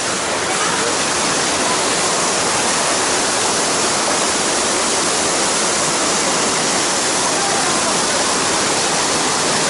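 Loud, steady rush of cascading water, an even roar of white noise with no breaks.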